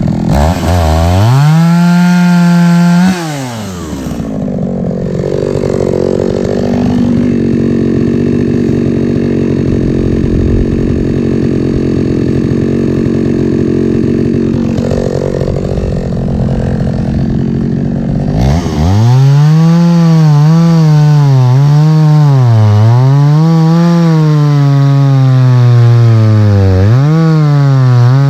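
Two-stroke chainsaw cutting logs for firewood. It revs high at first, drops back to a lower, rougher run for about fifteen seconds, then revs high again with its pitch sagging and recovering several times.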